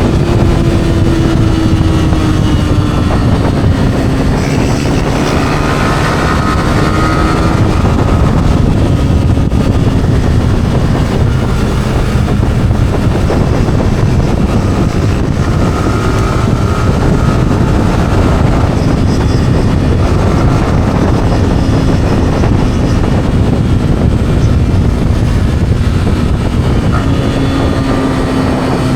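Yamaha R15's single-cylinder four-stroke engine, on its stock exhaust, running under way, its note drifting slowly lower and higher, over a steady heavy rush of wind and road noise.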